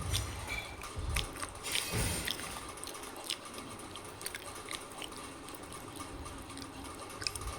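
Close-miked chewing of crunchy food: sharp crunches and wet mouth clicks, with a few low thumps in the first two seconds, then sparser clicks.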